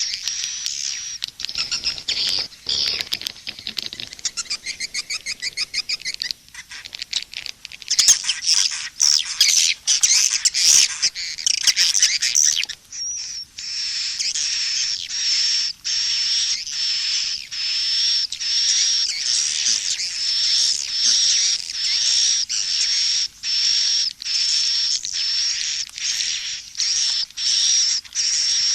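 Edible-nest swiftlet calls played as a swiftlet-house lure track: dense, high-pitched twittering chirps, louder and buzzier for a few seconds in the middle, then a short chirping phrase repeated about once a second with brief gaps.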